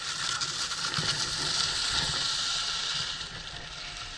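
Skis sliding and scraping over the snow, a steady hiss that fades away about three seconds in.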